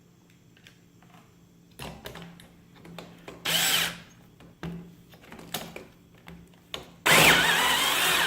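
Power drill driving self-tapping screws into the scale's top platform: a short burst about three and a half seconds in and a longer run of about a second near the end, with knocks and handling noise between.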